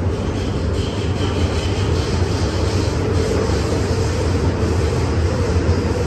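MTR M-Train electric multiple unit running between stations: a steady, loud rumble of wheels on rail and traction equipment, with a faint steady tone above it.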